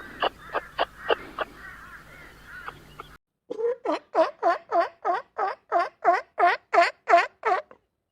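Two short cuts of bird calls. First, sharp short chirps over a faint hum; then, after a brief silence, a domestic fowl calls loudly over and over, about three calls a second, each rising and falling in pitch.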